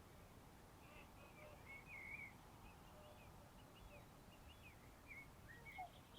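Faint wild bird calls: a scatter of short chirps and little gliding whistles over near silence.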